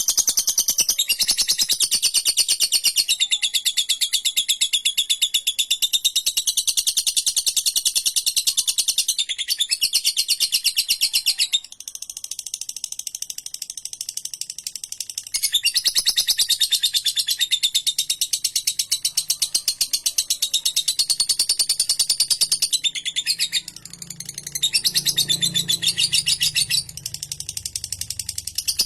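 Lovebird doing its long 'ngekek' song: a fast, high, rapid-fire chattering trill held for several seconds at a stretch, broken by a few short pauses. A faint low hum sits underneath in the second half.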